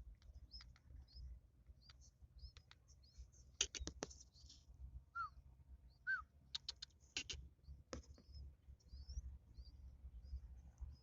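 Yellow-vented bulbul nestlings giving faint, short, high begging chirps over and over, some rising in pitch, while being hand-fed. Quick runs of sharp clicks come about four seconds in and again about seven seconds in.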